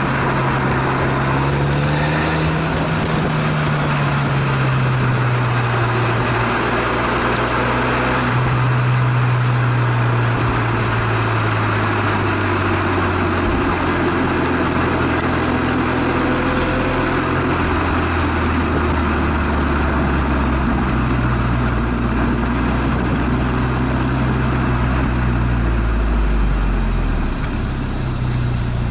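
Exhaust note of a Renault Megane Estate GT220, heard from the rear of the car, with the engine pitch rising and falling as the car accelerates and slows, over a steady rush of wind and tyre noise.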